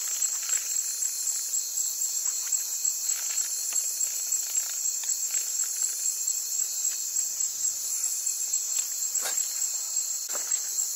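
Dense chorus of rainforest insects: a steady, high-pitched trilling with a rapid flickering pulse.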